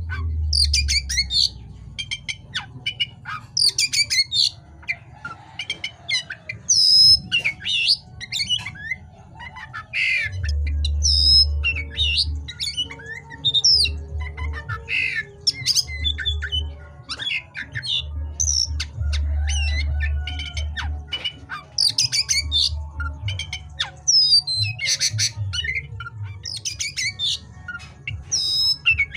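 Oriental magpie-robin (kacer) singing continuously, a rapid, varied string of whistles, trills and harsh squawky notes. A low hum comes and goes underneath.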